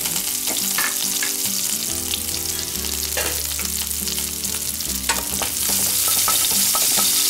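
Sliced shallots, dried red chillies and curry leaves sizzling in hot oil with spluttered mustard seeds, with sharp crackles through the sizzle. The pan is stirred and the sizzle grows louder about five and a half seconds in.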